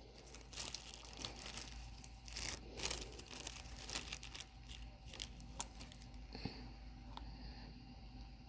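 Irregular soft crinkling and light clicks of craft materials being handled, with one sharper click about halfway through.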